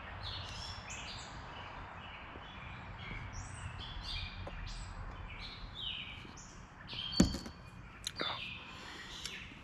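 Songbirds chirping and singing over and over in short phrases, with two short sharp knocks near the end.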